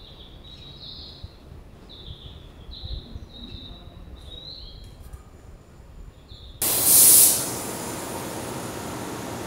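A small bird chirping repeatedly in short high calls. About two-thirds of the way through, a sudden loud hiss cuts in and settles into a steady rushing noise.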